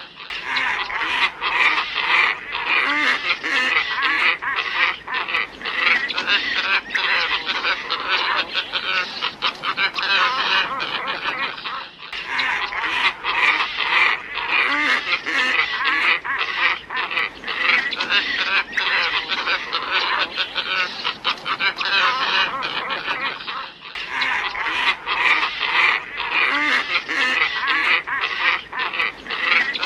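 Glossy ibis flock calling in a dense, continuous chorus, played as a bird-lure recording. The track is a loop that cuts and restarts about every 12 seconds.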